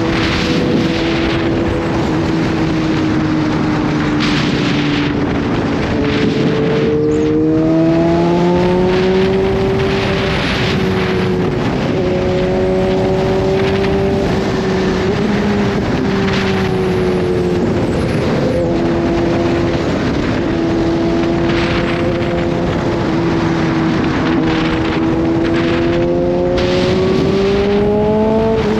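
Kawasaki Z H2's supercharged inline-four engine running at an easy cruise under a steady rush of wind noise. Its pitch dips about seven seconds in and then climbs again, and it rises once more near the end.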